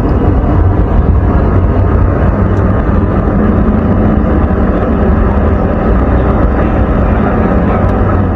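A motor engine running steadily with an even low hum, close and loud, cutting in and out abruptly.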